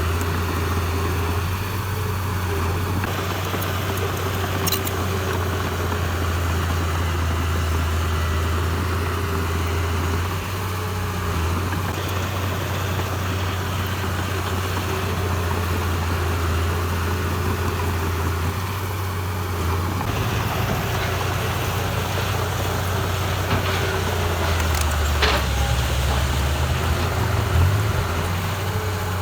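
Diesel engine of a heavy construction machine running at a steady low speed, with a deep constant hum. A couple of faint clicks can be heard over it.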